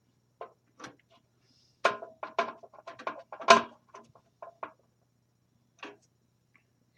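Clicks and knocks of hard parts being handled inside a metal computer case, as the motherboard is fitted and screwed down. A few scattered taps at first, then a quick flurry of knocks about two to five seconds in, the loudest in the middle of it.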